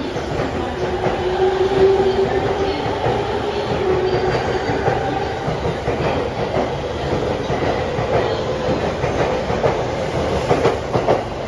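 JR East E231-500 series electric commuter train pulling out of the station and gathering speed past the platform: a steady rumble of wheels on rail with a motor whine running under it, then a cluster of sharp clacks near the end as the wheels pass over rail joints.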